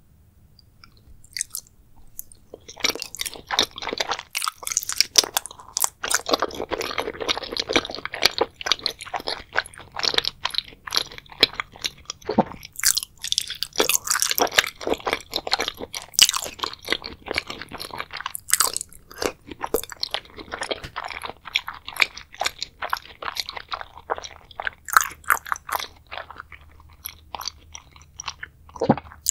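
Close-miked chewing of a big bite of raw salmon in spicy sauce: many small, quick mouth clicks and crackles, starting a couple of seconds in.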